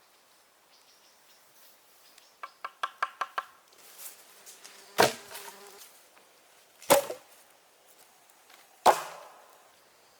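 Hand tool striking wood: a quick run of about seven light, ringing taps, then three heavy blows about two seconds apart.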